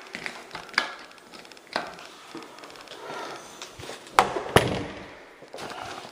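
A few scattered sharp knocks and clicks against hard surfaces, the two loudest close together about four seconds in, with a short ring after them.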